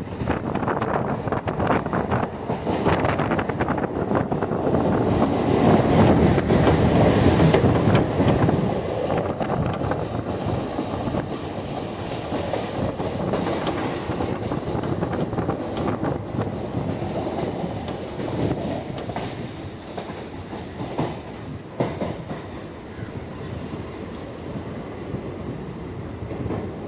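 Suburban electric local train running along the track, heard from on board: a steady rumble with wheels clattering over rail joints. It is loudest about six to eight seconds in, then eases.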